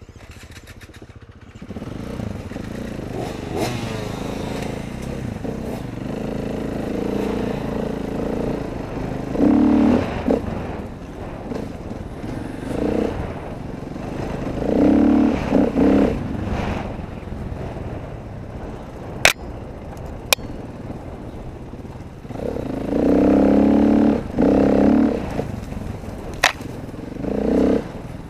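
Dirt bike engine running while riding, opening up in repeated louder throttle bursts several times, with a few sharp clicks or knocks in between.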